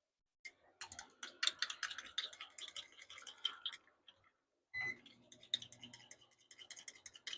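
Quick, light clicking and rattling in two spells, the first about three seconds long and the second about two and a half.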